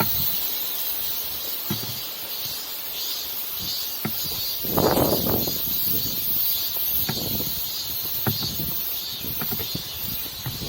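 Strong mountain wind gusting over the microphone: a steady hiss with louder rushing swells about five, seven and nine seconds in, and light knocks about once a second.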